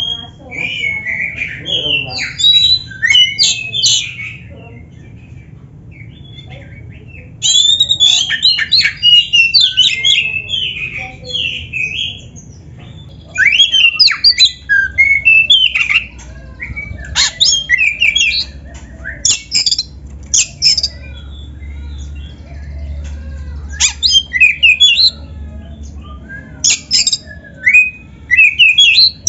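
Black-breasted oriental magpie-robin (kacer) singing: bouts of rapid, varied whistled and harsh phrases, broken by pauses of a second or two.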